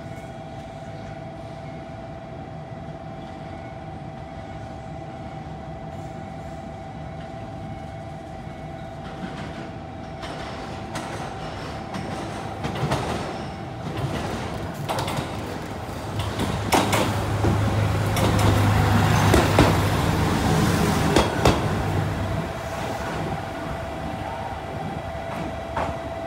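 A train rolls slowly into the station, its low rumble and the clicks of its wheels over rail joints growing louder as it comes close and loudest about two thirds of the way in. A steady high two-note tone sounds before it nears and again near the end.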